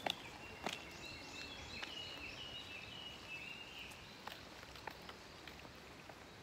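A small bird sings a quick run of repeated high chirping notes for about three seconds, starting about a second in. A few sharp clicks sound through it.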